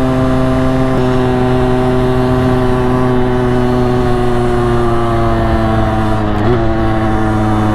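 Motorcycle engine running steadily under the rider, picked up by a helmet-mounted mic, its pitch slowly falling as the revs ease off, with a brief change about six and a half seconds in.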